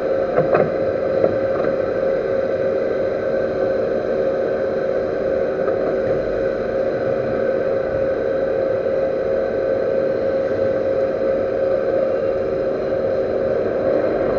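Metal lathe running steadily with a constant hum and whine while the repaired servo motor shaft is turned, with a few light clicks in the first second or so.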